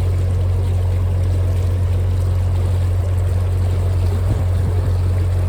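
Narrowboat's inboard diesel engine running steadily while cruising, a low, even drone.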